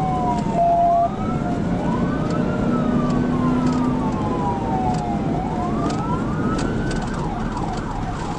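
Police cruiser siren wailing in slow rising and falling sweeps over heavy road and engine noise during a high-speed pursuit, switching to a faster yelp near the end. A short, loud, steady tone sounds briefly about half a second in.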